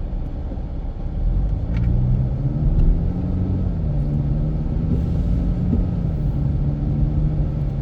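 Infiniti Q50 Red Sport 400's twin-turbo V6 heard from inside the cabin over a low road rumble. The engine note rises as the car accelerates about two seconds in, then holds steady at cruise.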